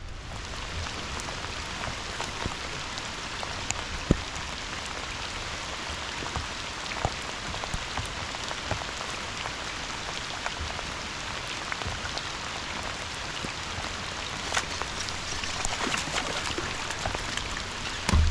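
Steady rain falling, an even hiss dotted with sharp ticks of individual drops striking close to the microphone, one louder tick about four seconds in.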